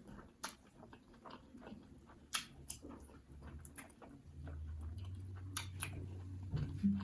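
Close-up chewing of a last mouthful of pounded yam (fufu) with ogbono and egusi soup: soft wet chewing with scattered mouth clicks and smacks. A low steady hum joins about four seconds in.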